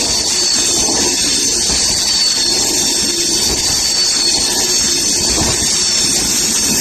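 Steady, loud rushing and rumble of a passing express train's wheels on the track, with a thin high whine held throughout; no horn.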